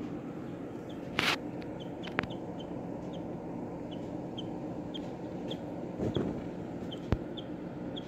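A small bird calling with short, high chips, repeated about every half second, over a steady low background. A few sharp knocks cut in, the loudest about a second in.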